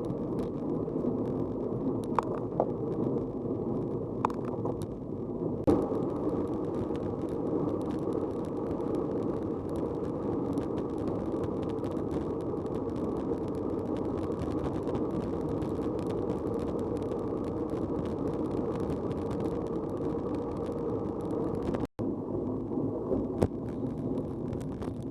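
Steady, muffled rumble of a bicycle ride, wind and rolling noise, with a few short clicks from the bike.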